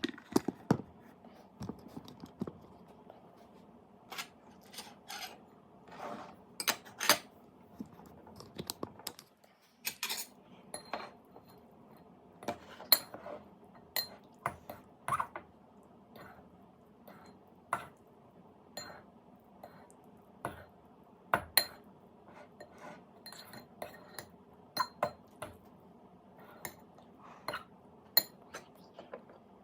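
Irregular clinks and knocks of cutlery against dishes, about one or two a second, some with a short ringing tone, over a faint steady hum.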